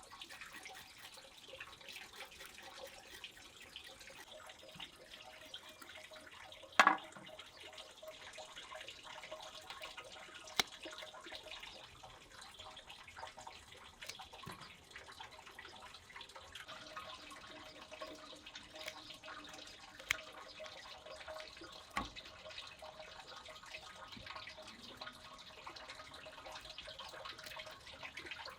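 Water running from a tap with light splashing, broken by a few sharp knocks, the loudest about seven seconds in.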